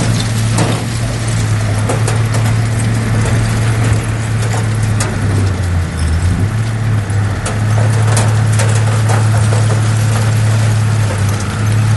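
Heavy earthmoving machine's diesel engine running steadily under load, its pitch dipping briefly about halfway through, with scattered sharp metallic clicks and clanks over it.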